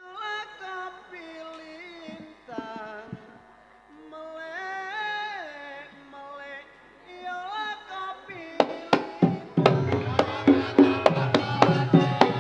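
Live music: a solo singer holds a slow, sliding, ornamented melody, then about eight and a half seconds in drums strike and the full band comes in on a quick, steady beat.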